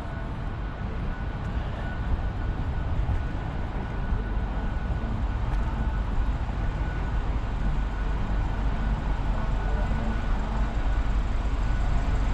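Steady street noise: a low rumble of traffic and wind on the microphone, with a faint steady high tone, slowly growing louder.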